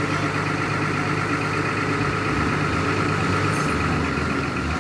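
An engine running steadily at idle, with a thin steady high whine over it.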